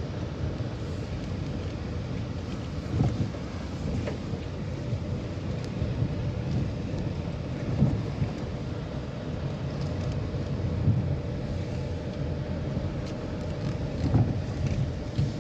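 A vehicle driving along a rough road: a steady low rumble, with short knocks from bumps several times.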